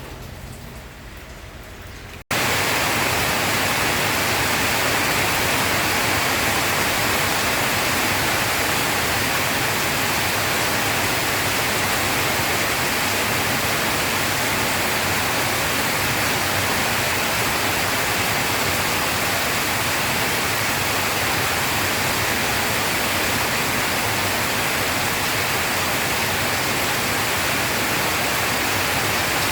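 Heavy rain as a steady, dense hiss. About two seconds in, a quieter stretch of rain cuts off abruptly and the louder, denser downpour takes over.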